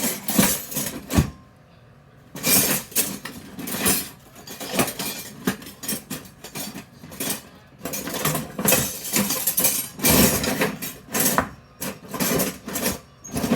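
Metal spoon clinking and scraping against a pot and bowls in irregular bursts while thick chicken and dumplings are ladled out, with a sharp knock about a second in.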